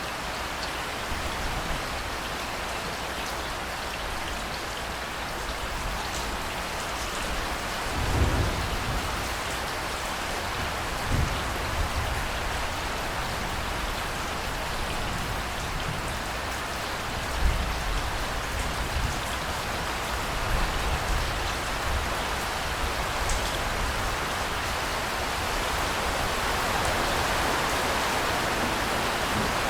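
Steady, heavy rainfall hissing and pattering on surfaces. Several low rumbles of distant thunder roll through, the first about eight seconds in and more past the halfway point.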